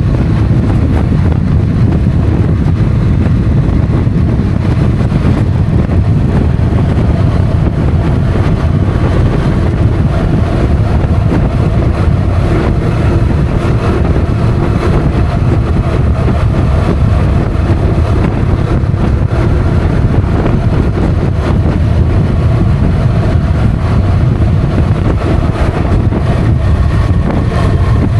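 Motorcycle riding at a steady pace: the engine running with faint steady tones under a loud, constant rumble of wind buffeting the microphone.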